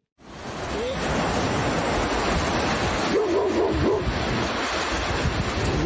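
A dog giving wavering calls that rise and fall, once about a second in and again for about a second from about three seconds in, over a loud steady hiss.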